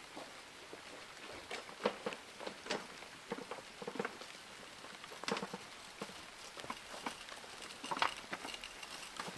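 Faint, irregular light clicks and taps, a few a second, with a slightly louder knock around two seconds in, one around five seconds and one around eight seconds.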